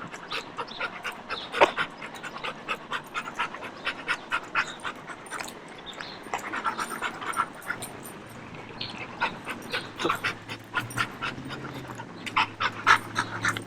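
A dog panting steadily in quick, even breaths. A low steady hum comes in about eight seconds in.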